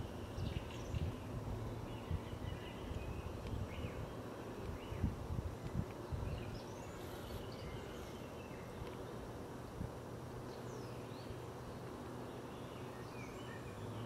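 Small birds chirping and calling on and off, with irregular low thuds and rumble during the first half.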